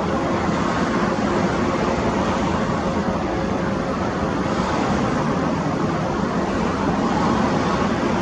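Jet airliner engines running: a steady, loud rushing noise with a faint low hum underneath.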